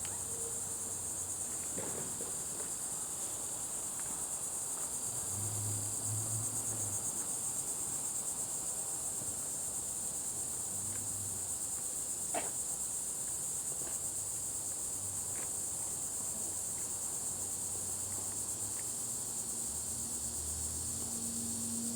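Steady, high-pitched chorus of insects that does not break or change.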